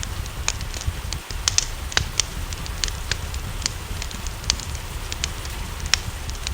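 Wood fire crackling, with frequent sharp, irregular pops over a steady low rumble and an even hiss of rain.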